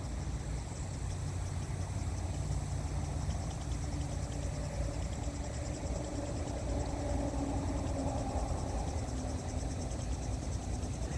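Outdoor ambience: insects trilling high and fast in an even pulse, over a steady low rumble with a faint hum like a distant engine.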